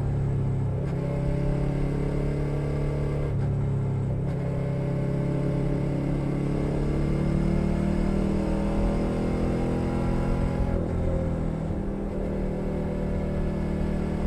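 Suzuki SV650's 645 cc V-twin with a Leo Vince Nero aftermarket exhaust, under way on the road. The engine pitch climbs steadily over several seconds, dips briefly about eleven seconds in, then rises again.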